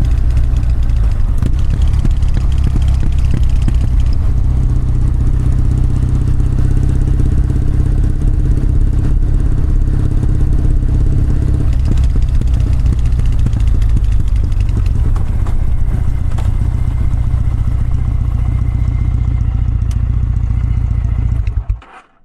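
Kawasaki W650's air-cooled parallel-twin engine and exhaust running steadily, then stopping suddenly near the end.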